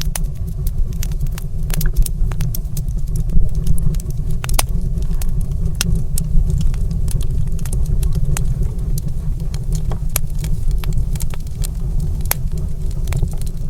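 Fire crackling in a fireplace: irregular sharp snaps and pops, several a second, over a steady low rumble.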